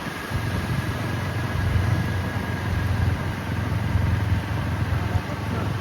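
Steady low rumble and rush of a large volume of water being discharged from the dam's spillway gates.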